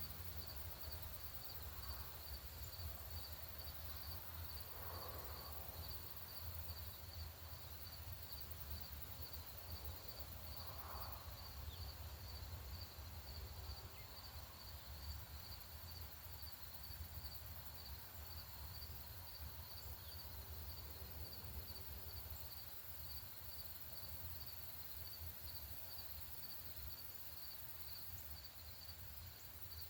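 Crickets chirping in a steady, evenly pulsed high trill, over a low background rumble.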